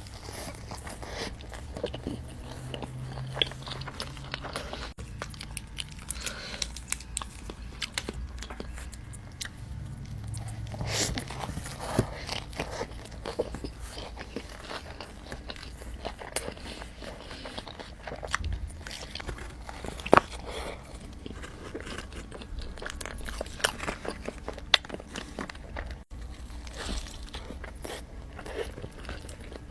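Close-miked eating of In-N-Out fast food: repeated crunchy bites and chewing, with sharp irregular crackles throughout.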